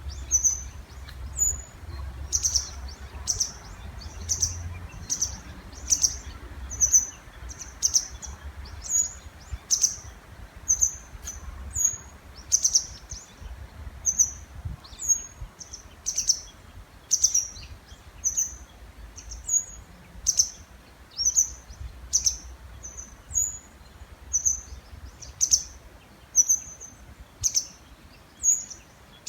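Small birds giving short, sharp, high-pitched calls over and over, about one to two a second, birds calling to each other in the breeding season.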